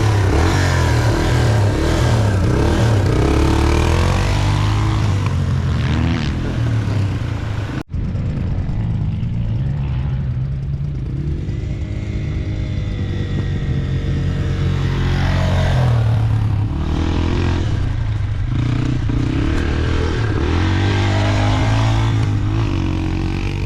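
Dirt bike engine revving up and down as it is ridden, the pitch rising and falling through gear changes and throttle. There is a momentary break about eight seconds in.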